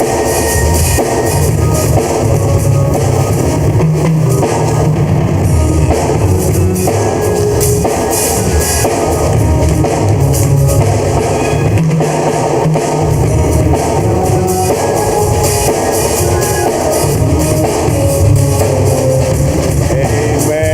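Band music with a drum kit, bass and guitar playing a steady rock beat.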